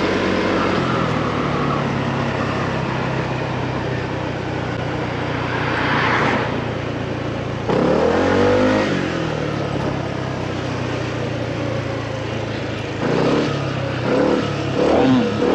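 Motorcycle engine running under way, with steady wind rush. The engine note falls and climbs again about eight seconds in, then rises and falls a few times near the end as the throttle changes.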